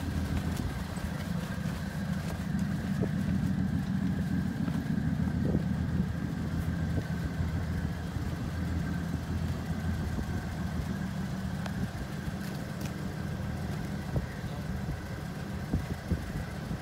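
1964 Studebaker Commander's engine running steadily.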